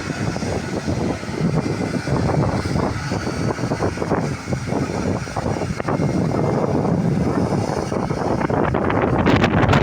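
Aircraft noise, a steady rumble mixed with heavy wind buffeting on the microphone, growing louder near the end.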